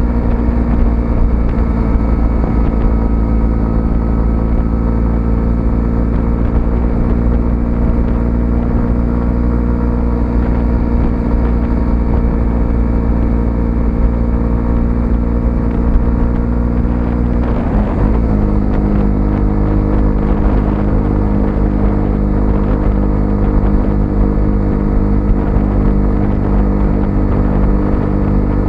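125cc motorcycle engine running steadily while riding. About two-thirds of the way in, the engine note briefly breaks and settles at a slightly lower pitch, like a gear change.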